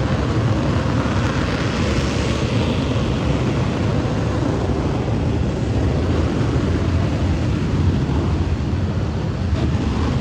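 Fighter jet engine noise: a loud, steady rush with a heavy low rumble. A higher hiss is strongest in the first three seconds and then thins out.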